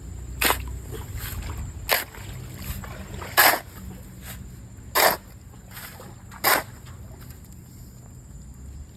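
Wet river sand being shovelled, one stroke about every one and a half seconds, each a short wet scrape and throw.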